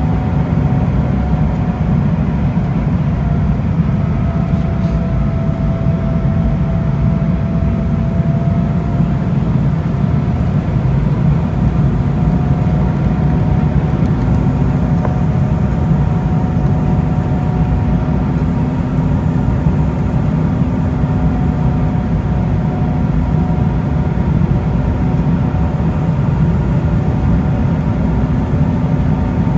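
Cabin noise of an Embraer E190 airliner in flight: a steady deep rumble of airflow and its two turbofan engines, with faint whining tones that waver slightly in pitch.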